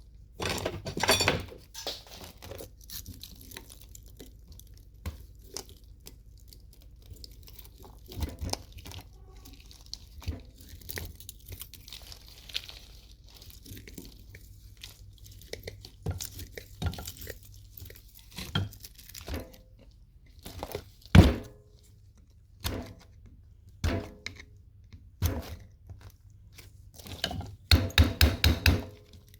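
Irregular knocks and clatters of metal parts being handled while a microwave oven is taken apart by hand, with one sharp knock about two-thirds of the way through and a quick run of knocks near the end.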